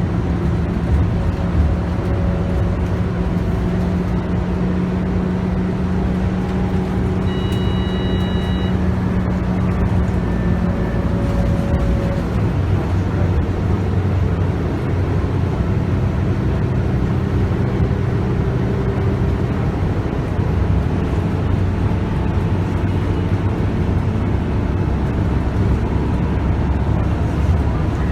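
Scania K280UB bus heard from on board, its 9.3-litre five-cylinder engine and ZF Ecomat automatic gearbox running while the bus drives, the engine note shifting in pitch partway through. A short high beep sounds about eight seconds in.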